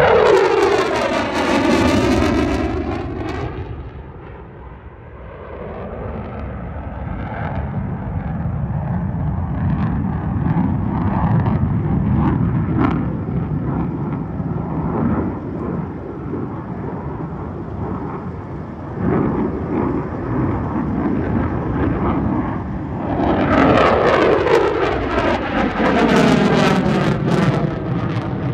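Military jet aircraft flying low past twice: a loud engine noise whose whine drops in pitch as it goes by, right at the start and again from about 23 seconds in, with a lower rumble of the engines in between.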